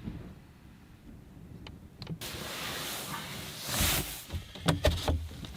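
A zipper pulled open in one long scratchy run about two seconds in, followed by a few quick knocks and rustles.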